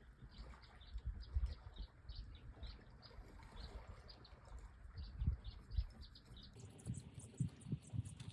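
Small birds chirping in quick short notes, with irregular low thumps underneath.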